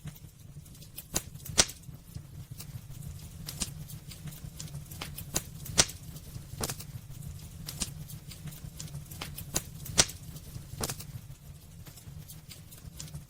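Wood fire crackling in a fireplace: irregular sharp snaps and pops, a few much louder ones about a second and a half in, near the middle and about ten seconds in, over a steady low rumble of burning.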